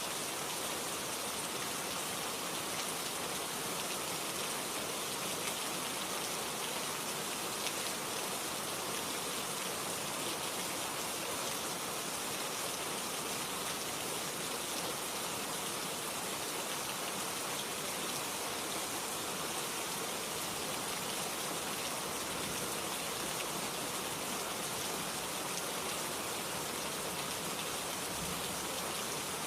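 Steady rain ambience: an even, unbroken hiss of rainfall.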